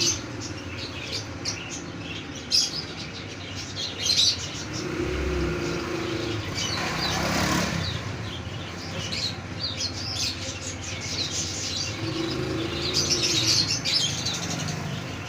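Many small caged birds chirping constantly, with a brief flurry of wingbeats about seven seconds in.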